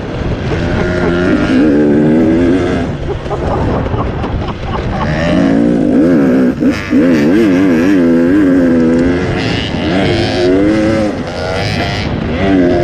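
Dirt bike engine being ridden hard, its pitch rising and falling over and over as the throttle is worked on and off.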